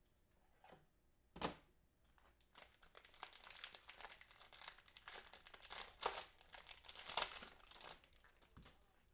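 Plastic wrapper of a trading card cello pack being torn open and crinkled, a dense crackling for several seconds, loudest near the end. It comes after a single knock about a second and a half in.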